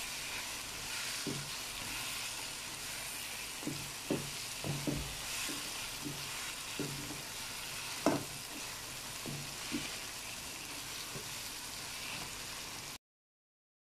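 Chicken, tomatoes and spice masala sizzling steadily as they are stir-fried in a non-stick wok, the bhuna stage of cooking the chicken with its spices, with the spatula knocking and scraping against the pan now and then. The sound cuts off abruptly to dead silence about a second before the end.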